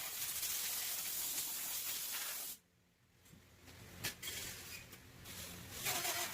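Steady hiss of compressed air from a body-shop air tool, cutting off suddenly about two and a half seconds in; after a short near-silence there is a single sharp click and faint low noise.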